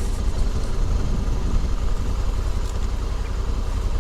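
Honda CRF1100L Africa Twin's parallel-twin engine running, a steady low rumble.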